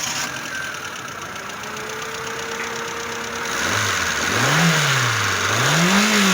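Hyundai Santro car engine running just after a fuel pump change, idling for a few seconds and then revved twice, the pitch rising and falling smoothly each time.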